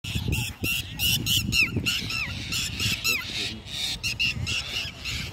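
Mynas giving harsh, rapidly repeated alarm calls, several a second, some sliding down in pitch, as they mob a snake. A low rumble of background noise runs underneath.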